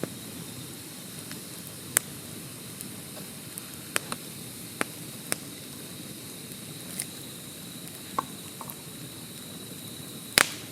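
Campfire crackling: wood burning with a steady low hiss and irregular sharp pops, a handful over several seconds, the loudest near the end.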